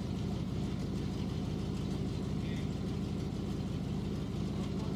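A car engine idling steadily, a constant low hum with an even pulse and no change in speed.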